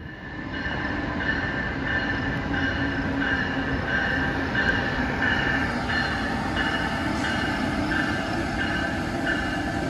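Passenger train pulling into a station, its running noise steady, with a ringing tone that repeats about twice a second over it.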